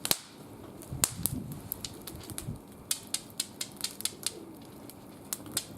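Wood fire crackling in a barbecue grill: irregular sharp pops and snaps, several a second, the loudest near the start and about a second in.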